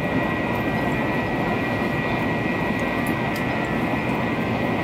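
Cabin noise inside a THSR 700T high-speed train in motion: a steady rushing rumble with a thin, steady high whine running through it.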